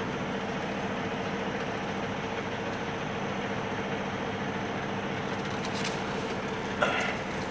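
Semi-truck diesel engine running steadily at low speed while reversing a trailer. Near the end comes a short, sudden hiss of released air from the air brakes.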